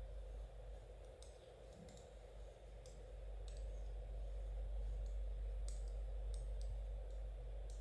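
Knitting needles clicking lightly and irregularly as stitches are worked, over a steady low hum.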